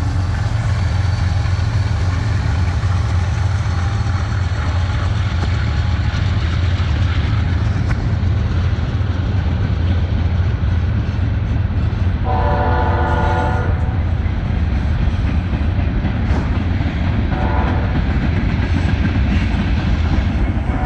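Norfolk Southern freight train's diesel locomotives running with a steady low rumble. The locomotive's air horn sounds a long blast about twelve seconds in and a short one about five seconds later, and another blast begins at the very end.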